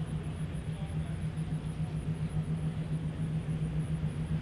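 Alco C420 diesel locomotives running with a steady low engine drone that pulses slightly.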